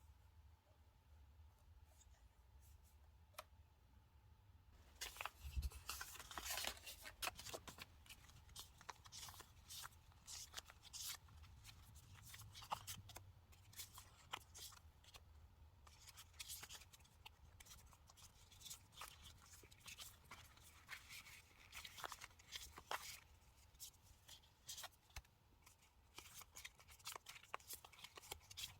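Quiet rustling, crinkling and small clicks of paper and stickers being handled on a diary page, sparse at first and becoming a dense run of crackles about five seconds in.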